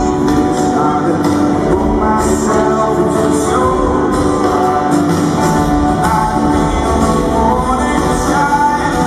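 Live rock band playing with a man singing over it, steady and loud.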